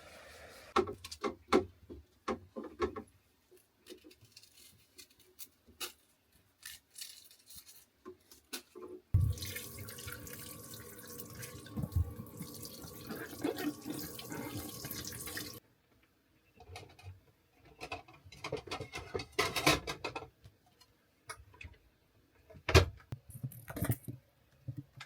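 Water running from a tap for about six seconds, starting and stopping abruptly, with scattered clicks and knocks of things being handled before and after.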